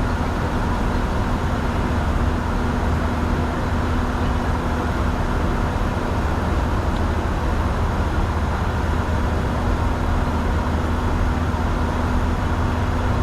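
Steady cockpit noise of a Bombardier Challenger 605 business jet in flight: airflow and engine drone at an even level, with a constant low hum.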